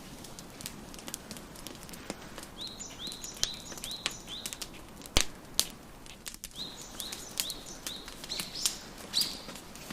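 Wood fire crackling with sharp, scattered pops, the loudest about five seconds in, over a small bird chirping in quick runs of short, high notes.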